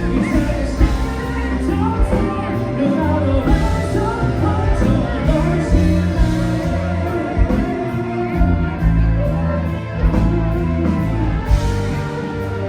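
Live band playing a rock-style song in a bar, with a singer and electric guitar over a steady drum beat.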